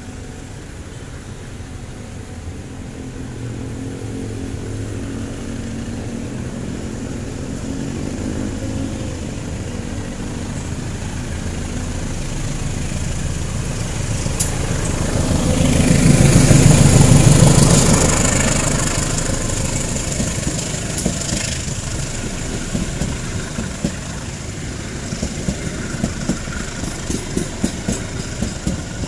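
KAI CC201 diesel-electric locomotive hauling a passenger train approaches and passes close by, its engine growing louder to a peak a little past halfway. The coaches follow, rolling past with a quick run of wheel clicks over the rail joints near the end.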